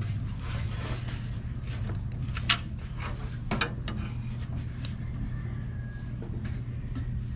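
Steady low hum under intermittent sharp clicks and knocks of hand work on parts, the loudest knock about two and a half seconds in and a quick pair about a second later.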